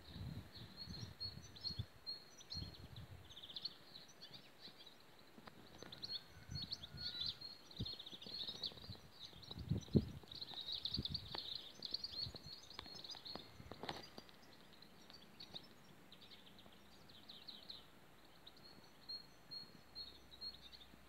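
Small birds chirping in quick high-pitched runs again and again, with a few dull low thumps, the loudest about ten seconds in.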